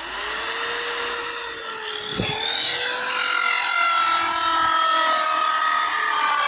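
An electric power tool's motor starts suddenly and runs loud with a steady whine. Its pitch dips briefly about two seconds in, then slowly sinks.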